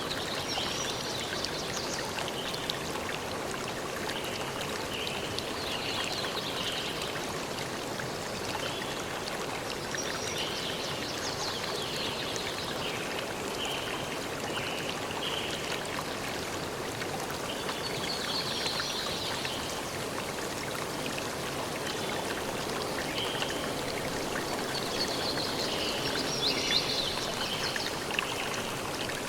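A stream running steadily, with songbirds singing short phrases every few seconds over the water.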